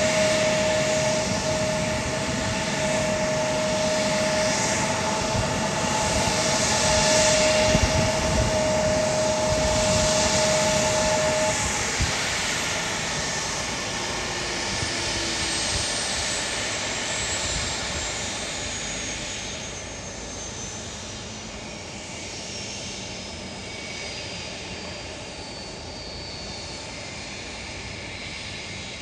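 Airliner engines running at the airport: a loud roar with a steady hum that drops away about twelve seconds in. The sound then fades, with a high whine slowly falling in pitch.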